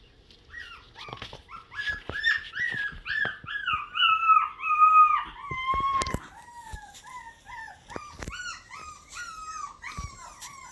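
Six-week-old Havanese puppies whining in a quick run of high cries that each fall in pitch. The cries are loudest around the middle and then go on more softly, with a few light knocks between them.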